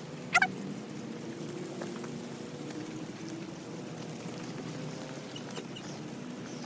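A single sharp bird call, falling in pitch, about half a second in, over a steady low hum that wavers slowly in pitch.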